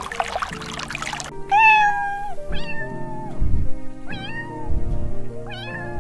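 A domestic cat meowing about four times, the first meow the longest, over background music with a steady beat. A rushing, pouring noise fills the first second before the meows begin.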